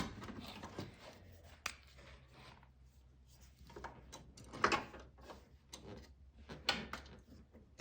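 A metal camber/caster plate being slid and shifted on the car's strut tower: scattered light clicks and short scrapes of metal on metal, loudest about two-thirds of the way in, over a faint steady low hum.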